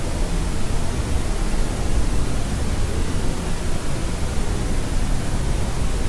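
Steady white noise, an even rushing hiss with no change, heavier in the low end than a plain hiss.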